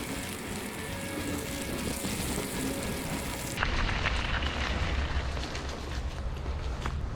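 Steady rushing hiss with faint background music. About three and a half seconds in it cuts abruptly to a low, rumbling wind noise on the microphone.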